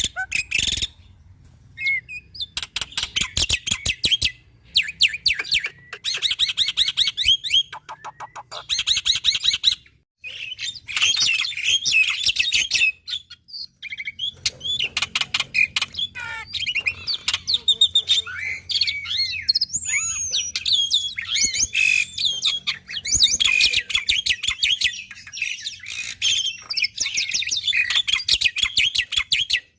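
Black-winged starling (jalak putih) singing a long, varied song: fast rattling click trains, harsh chatter and gliding high whistles, broken by a few short pauses.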